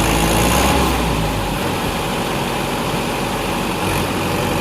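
Mahindra 595 tractor's diesel engine running at a steady idle. Its deep low rumble drops away about a second and a half in and comes back near the end.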